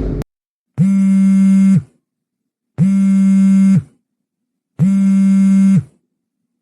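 A burst of noise cuts off just after the start, then a phone ringing: a flat buzzing electronic ring tone, three rings of about a second each, one every two seconds.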